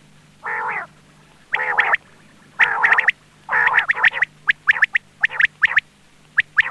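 Quail calling: a few raspy, rich notes, then a quick run of short, sharp, high notes at about three a second. It is a quail lure call for hunting.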